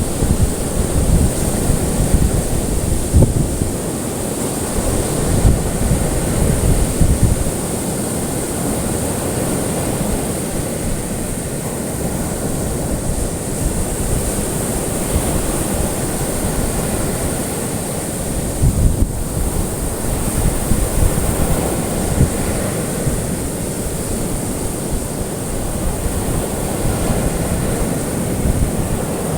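Ocean waves washing and breaking in a steady rush, swelling every few seconds, with a constant high hiss over them.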